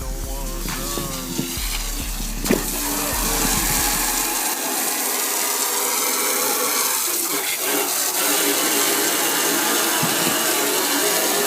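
A sharp click about two and a half seconds in, then a steady rushing noise that carries on.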